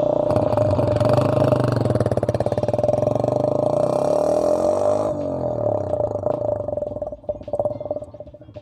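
Motorcycle engine running with an empty drink can fitted over the silencer outlet, giving a steady high note over the exhaust. The revs rise about three and a half seconds in, drop back about five seconds in, and the sound gets quieter near the end.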